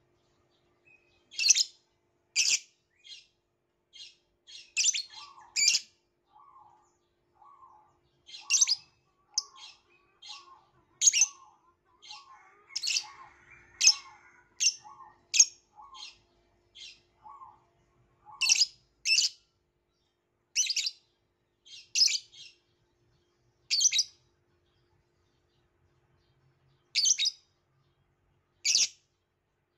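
Violet lovebird giving short, shrill chirps at irregular intervals, some in quick pairs. A softer, lower call repeats about twice a second through the first half.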